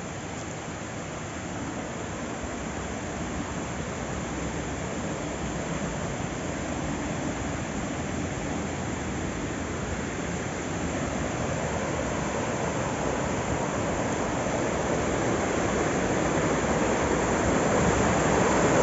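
River water rushing over rocks, a steady noise that grows gradually louder.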